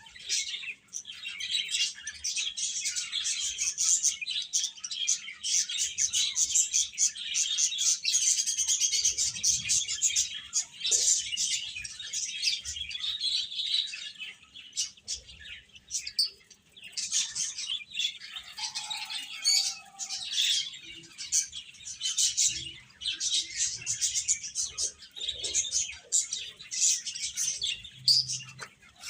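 A group of chicken chicks peeping nonstop, many high-pitched cheeps overlapping, with a brief lower call about two-thirds of the way through.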